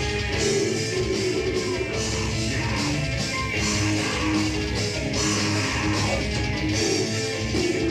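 Live heavy metal band playing: distorted electric guitars over bass and drums with a steady beat.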